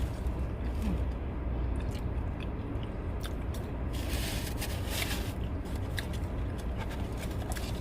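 A person chewing and biting into a chicken sandwich and waffle fries, with small crunches, over a steady low rumble. There is a short hissy burst of noise about four seconds in.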